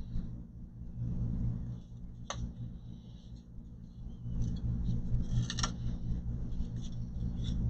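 Light handling noises of computer parts being fitted by hand: rustling and scraping, with two sharp clicks, about two seconds in and again past five seconds, over a steady low hum.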